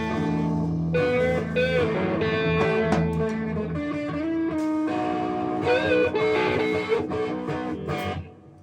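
Band music led by an electric guitar playing bent, blues-style notes over bass and drums. It stops about eight seconds in.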